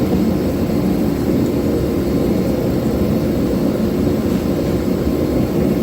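Steady roar of a gas forge's burner running continuously, a low even rushing noise without breaks.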